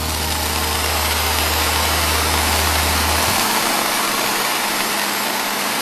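A steady, even rushing noise like static or rushing air, with a low held note underneath that stops about three seconds in.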